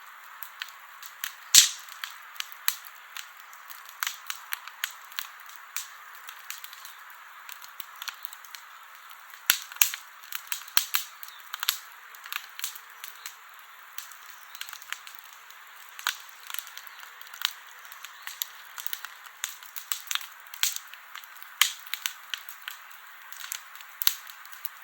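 Wood campfire burning, crackling with irregular sharp pops over a steady hiss of flames, a few louder pops among them.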